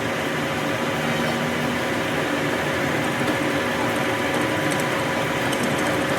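A machine running steadily, with a constant hum and no change in speed.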